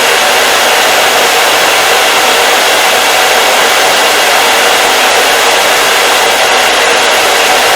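Hair dryer running steadily: an even, unbroken rush of blowing air with a faint motor hum.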